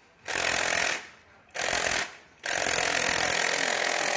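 A power tool running in three bursts: two short ones, then a longer one of about three seconds. It makes a harsh, even buzzing noise that starts and stops abruptly.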